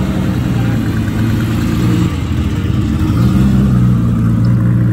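Car engine running at low revs with a deep, steady note that gets louder about three seconds in and falls away at the end.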